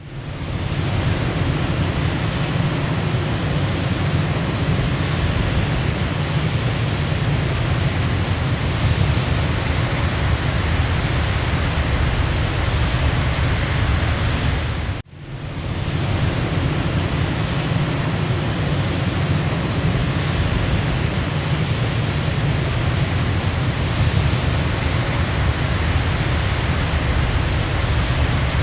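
Waterfall rushing steadily, a dense, even wash of water noise heaviest in the low range. About halfway through it cuts out for an instant and swells back in within a second.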